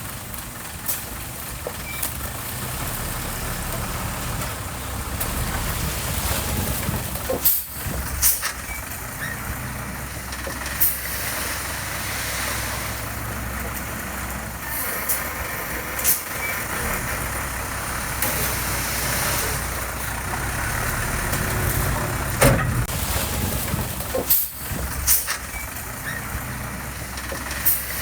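Diesel engine of heavy earthmoving equipment running steadily, with sharp knocks scattered through it.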